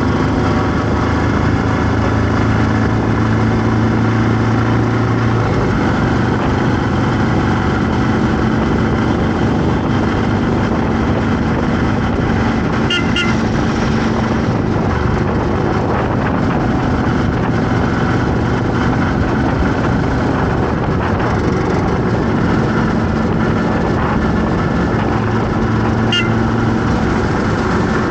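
Busy road traffic with engines running steadily and short vehicle horn toots, one about halfway through and another near the end.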